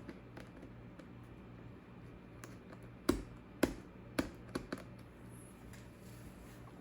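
A few sharp clicks and taps from hands working on a laptop, over a low steady hum: a quick run of five clicks about halfway through, the first ones the loudest.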